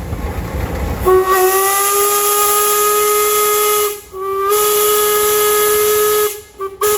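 Steam whistle on a parade steam engine blowing a long, steady blast with a high hiss of steam, broken briefly about four seconds in, then a second long blast and a couple of short toots near the end. A low rumble comes before the whistle opens.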